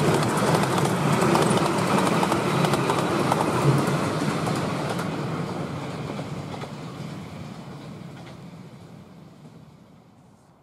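Miniature railway passenger coaches rolling past on the track, the wheels clicking over the rail joints, then the train's noise fading away steadily over the last six seconds or so.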